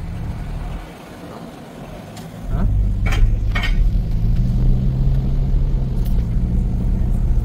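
Car engine running close by, a steady low rumble that becomes much louder about two and a half seconds in, with two sharp clicks soon after.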